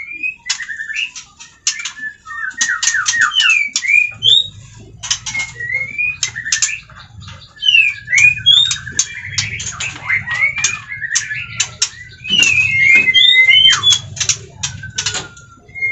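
White-rumped shamas calling: many rapid dry clicks mixed with short rising and falling whistled notes, with a longer held whistle near the end. A faint low rustle of handling runs underneath.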